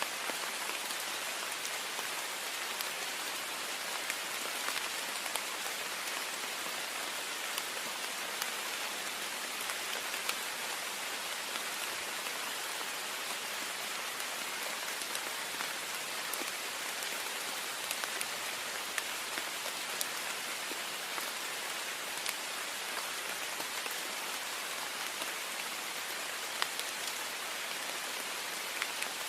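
Heavy rain falling on a window: a steady hiss of rain with many small drops ticking sharply against the glass.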